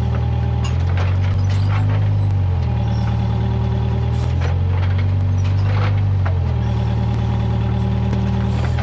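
Case 580G backhoe loader's diesel engine running hard, its pitch dipping and recovering several times as it takes hydraulic load, with scattered sharp knocks and cracks over it.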